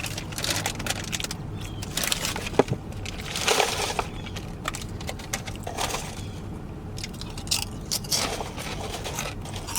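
Close-miked chewing and lip smacking, with irregular wet clicks and crunches, over a low steady hum.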